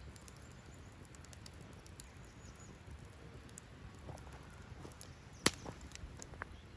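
Wood campfire crackling with scattered sharp pops, one much louder pop about five and a half seconds in, over a low steady rustle of the flames, with faint chirps of small birds.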